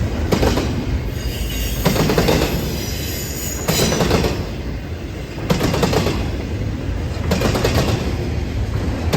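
Freight train cars rolling past close by: a steady rumble with a clatter of wheels over the rail joints about every second and a half to two seconds, and a thin high wheel squeal around the middle.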